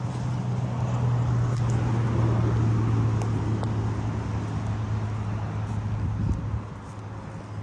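A motor vehicle's engine running close by, a steady low hum over road noise that drops away about six and a half seconds in.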